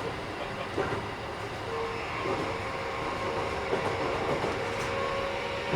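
Keikyu 1000 series electric train running, with a steady rumble, a clack of the wheels over a rail joint about a second in, and faint steady whining tones from its Mitsubishi IGBT inverter-driven traction motors. This set is a little noisier than other sets of its class.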